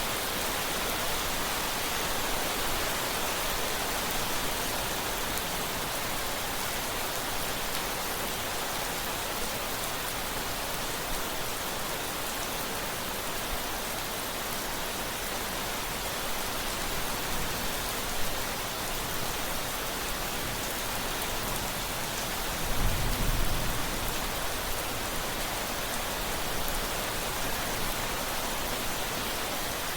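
Steady rain falling, an even hiss of drops. About three-quarters of the way through comes a brief low rumble.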